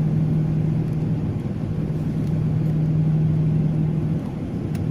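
Airliner cabin noise after landing: the engines keep up a steady drone with a low hum, easing briefly near the end.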